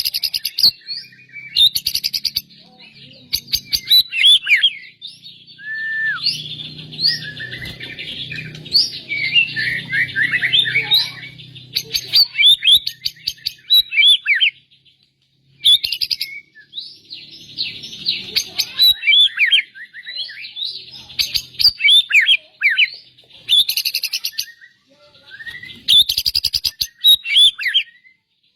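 Caged songbird singing a long, varied song of rapid chirps, whistles and trills in phrases, with brief pauses between bursts, such as is used as masteran tutoring song.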